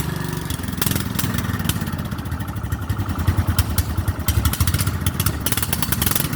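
Craftsman 14 HP OHV riding lawn tractor's single-cylinder engine running, a deep rapid pulsing beat that turns choppier for a couple of seconds midway.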